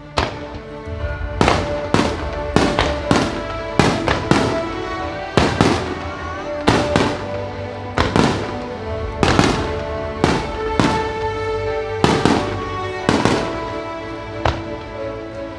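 Aerial firework shells bursting in quick succession, about twenty sharp bangs at one or two a second, over music played with the display.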